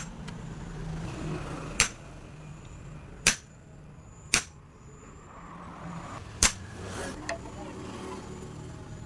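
About five sharp knocks or clicks at uneven intervals, with a few fainter clicks after them, over a low steady hum.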